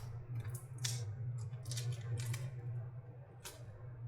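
Top cover of a lithium-ion battery pack being worked off by hand: a string of irregular small clicks and scrapes, over a steady low hum.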